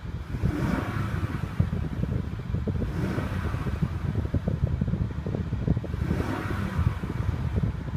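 2014 Lexus LS 460's 4.6-litre V8 revved a few times while standing, the engine sound swelling and easing back about three times over a steady low rumble.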